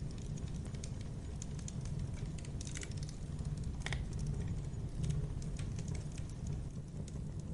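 Campfire burning: a steady low rumble of the flames under frequent small wood crackles, with a couple of louder pops around the middle.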